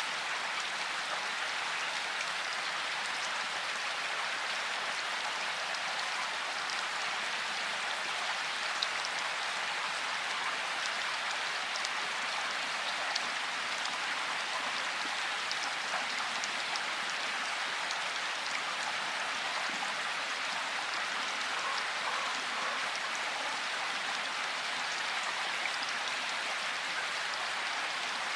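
Steady rain falling: an even hiss with scattered sharper drop taps, holding the same level throughout.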